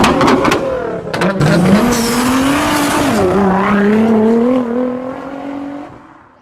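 Porsche 718 Boxster's turbocharged flat-four engine running at high revs. Its pitch climbs, dips about three seconds in, then holds fairly steady before fading out near the end.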